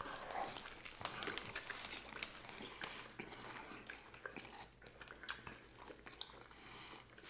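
Two people biting into and chewing cheesesteak sub sandwiches close to the microphone: faint, scattered small wet mouth clicks and chewing noises.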